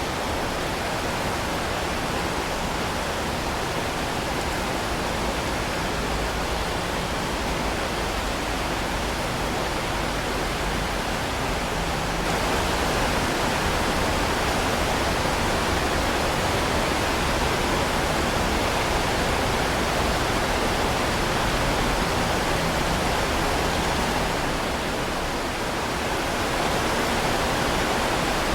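Heavy rain falling steadily: a dense, even hiss with no separate drops standing out. It swells slightly about twelve seconds in and eases briefly near the end.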